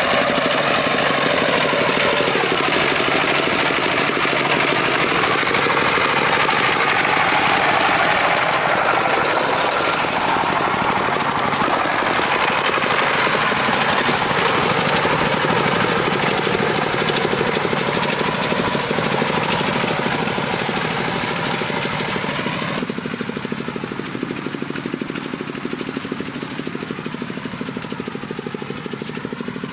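Farm truck engine running with a rapid knocking beat, its pitch rising and falling as the engine speed changes. About three quarters of the way through the sound turns duller and a little quieter.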